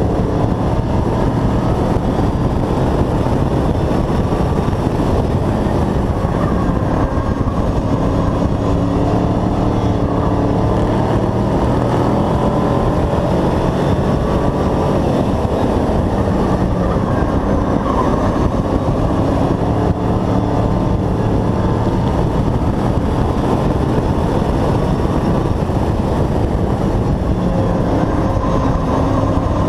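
Hobby-class race truck's engine running hard and continuously, its pitch rising and falling gently with the throttle.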